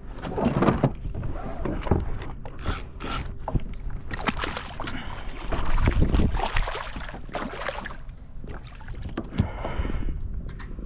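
Splashing water with knocks and scrapes against a kayak hull as a fish is landed, with a louder bump about six seconds in.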